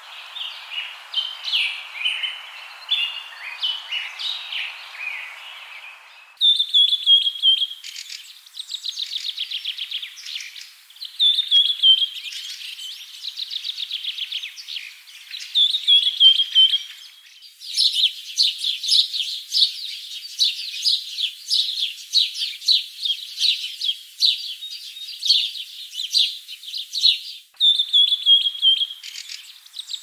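Songbirds chirping and singing, with rapid trills and repeated short falling notes. The sound changes abruptly about 6, 17 and 27 seconds in, where separate bird recordings are joined.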